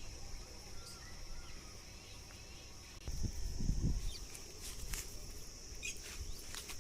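Steady high-pitched insect trilling, with a brief low rumble about three seconds in and a few faint short clicks near the end.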